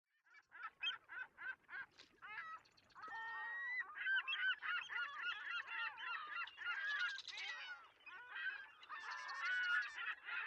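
Birds calling: a quick run of short pitched calls, then many calls overlapping one another.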